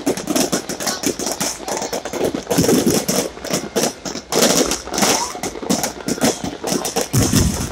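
New Year fireworks going off in rapid volleys, many sharp pops a second, with crowd voices underneath.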